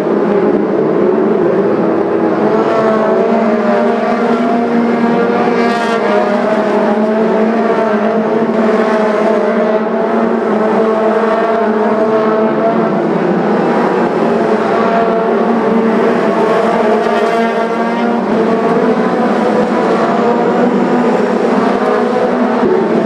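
Several racing cars' engines running together around the track, a continuous loud drone with several engine pitches at once that shift only slightly.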